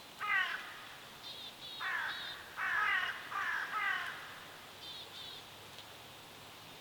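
Birds calling: about five loud, falling calls in two groups, with short, high chirps from another bird between them and again near the end.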